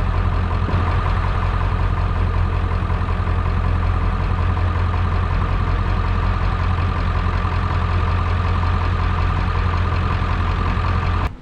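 An engine idling steadily with a deep, even hum, cutting off suddenly near the end.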